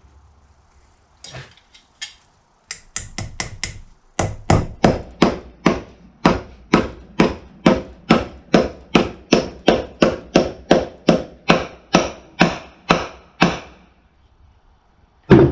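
Hammer tapping a dust boot into a Scag mower's front caster housing: a quick run of light taps, then an even series of about two to three strikes a second, each with a short ring, stopping near the end.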